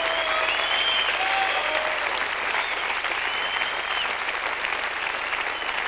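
Concert audience applauding steadily, with a few whistles rising and falling over the clapping.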